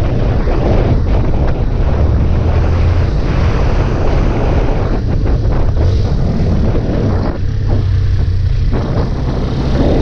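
Yamaha Fazer 250's single-cylinder engine running on a test ride, its low note shifting now and then, with wind rushing over the microphone.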